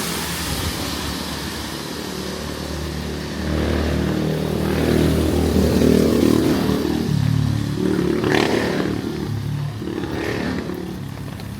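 Street traffic: motorcycle and other vehicle engines passing close by, swelling to a peak in the middle, with two short higher-pitched flares near the end.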